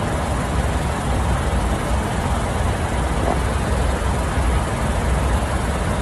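Steady airliner cockpit noise in flight: a constant low rumble under an even rush of airflow hiss.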